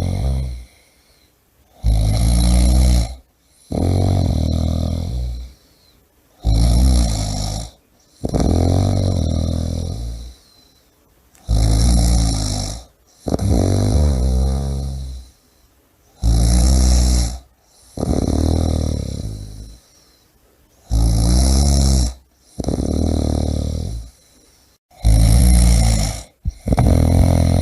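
A person snoring loudly and rhythmically: a shorter low rattling snore followed by a longer one that fades away, the pair repeating about every four to five seconds with brief quiet gaps.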